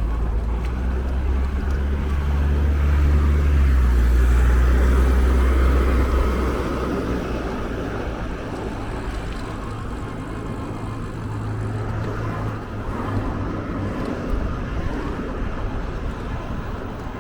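A motor vehicle running, with a strong steady low hum for about the first six seconds that then drops away, leaving an even road-like rumble.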